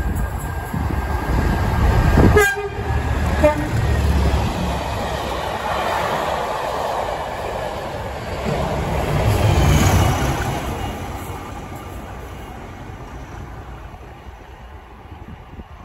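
Locomotive-hauled train running through on the near line: diesel engine rumble and wheel noise build as it approaches, with two short horn toots about two and three and a half seconds in. The noise swells again as it passes close, then fades as the train moves away.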